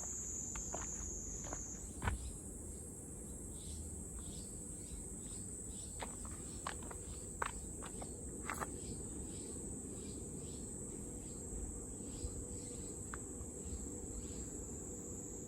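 Steady high-pitched insect chorus, shifting slightly higher about two seconds in, with fainter chirps repeating about twice a second and a few scattered light clicks.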